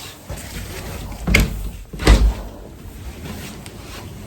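A door thumping twice, about a second apart, over a steady rushing noise.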